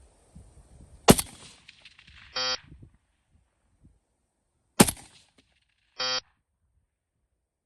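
Two rifle shots with FMJ ammunition, fired about three and a half seconds apart. About a second and a quarter after each shot comes a short buzzing tone from downrange.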